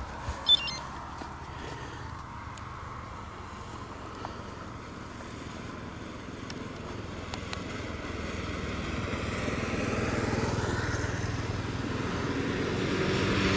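A motorcycle engine on the road, growing steadily louder over the second half as it draws closer. A single sharp click comes about half a second in.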